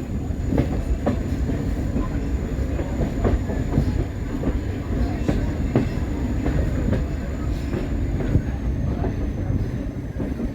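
A passenger train on the move, heard from an open-air coach just behind its diesel locomotive: a steady rumble with frequent irregular clicks and knocks of the wheels on the rails.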